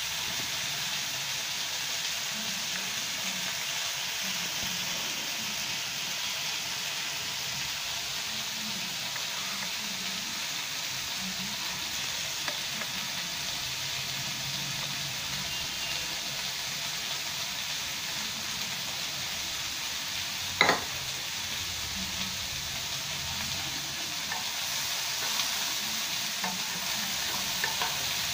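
Chicken, broccoli and carrot stir-frying in a nonstick pan, giving a steady sizzle. There is one sharp knock about two-thirds of the way through, and a few light clicks of the spatula stirring near the end.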